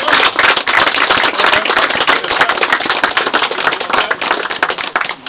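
Crowd applauding a prize winner: many hands clapping fast and unevenly, thinning out near the end.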